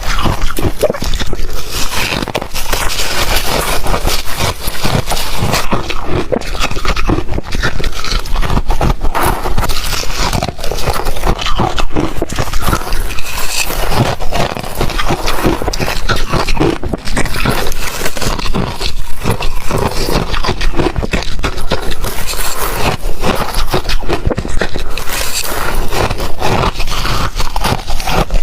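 A person chewing ice close to the microphone: a loud, continuous run of crackling crunches.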